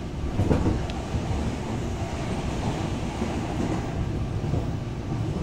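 Electric commuter train of the Tobu Urban Park Line running, heard from inside the passenger car: a steady rumble of wheels on rails, with one louder knock about half a second in.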